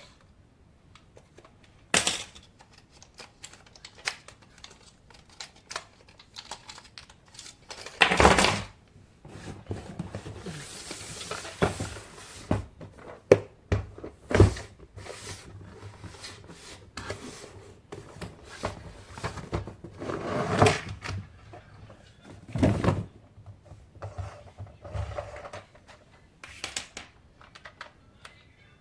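Toy packaging being handled during an unboxing: scattered clicks and small knocks, with a few louder rustling swishes and thumps spread through.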